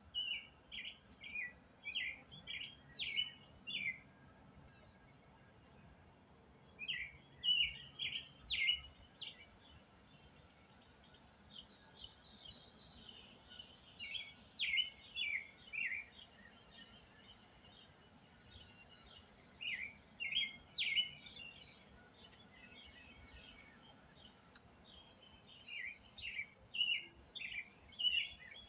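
A songbird singing in bouts of quick, sharp chirping notes, five bouts a few seconds apart, over a faint steady high-pitched hum.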